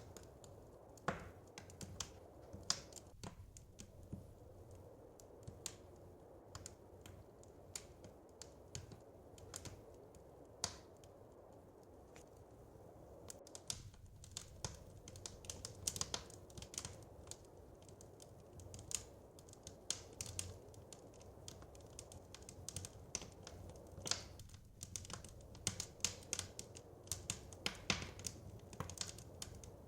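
Wood fire crackling in a fireplace: irregular sharp pops and snaps over a low steady rumble, sparse at first and busier from about halfway through.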